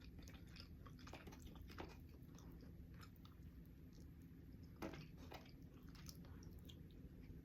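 Faint chewing and soft mouth clicks of someone eating baked chicken wings, with a slightly stronger click about five seconds in.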